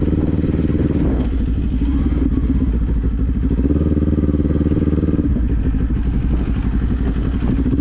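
Motorcycle engine pulling through the gears on the road, its note climbing and dropping back a few times as it is shifted up.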